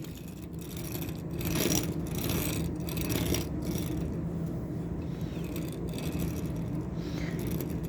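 Die-cast metal model truck rolled back and forth on its wheels, giving a steady rolling scrape with light rattles.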